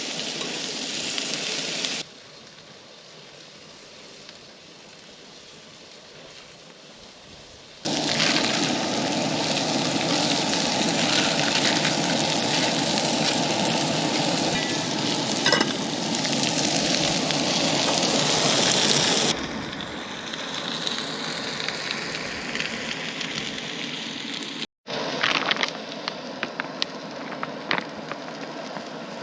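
Fajita steak and vegetables sizzling in a frying pan, in several short clips that jump in loudness, louder in the middle. Near the end there are a few sharp clinks and ticks, like a utensil against the pan.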